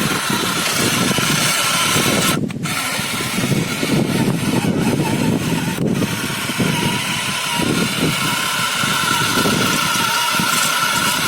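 John Deere tractor's diesel engine running steadily under load, with a steady high whine over it that grows stronger near the end. The sound dips briefly about two seconds in.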